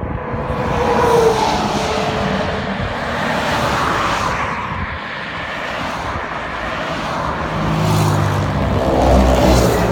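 Road traffic rushing past a cyclist: motor vehicles going by close, with tyre and wind noise. A lower engine hum builds near the end.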